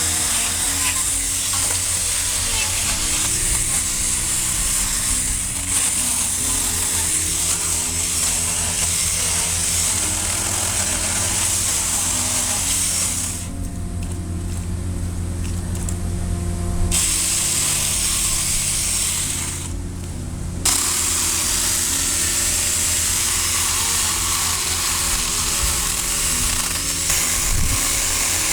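Battery-powered Saker mini electric chainsaw running and cutting through branches with a steady motor-and-chain whine. It stops twice about halfway through, once for a few seconds and once briefly, then starts again.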